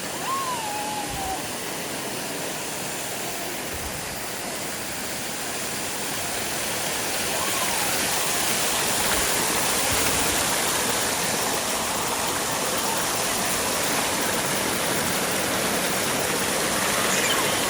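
Valley stream flowing, a steady rush of running water that grows a little louder about six seconds in.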